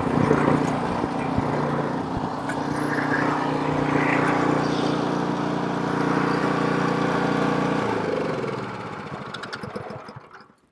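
Snowblower's small gasoline engine running steadily, then slowing from about eight seconds in as it winds down. It ends with a few sputters and fades out.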